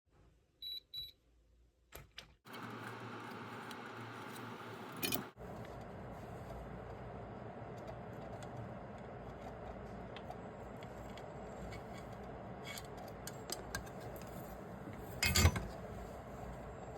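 Small metal clicks and clinks of tools and parts being handled at a workbench, over a steady background hum. Two short high beeps come about a second in, and sharper knocks come at about five seconds and again near the end.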